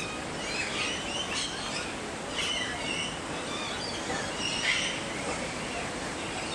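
Several birds chirping and calling, short high calls coming every second or so, over a steady noisy background.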